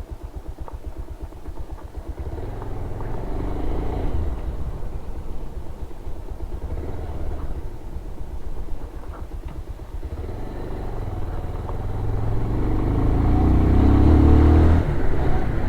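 Motorcycle engine running at low revs with a distinct pulsing beat, then pulling harder and growing louder in the last few seconds before easing off.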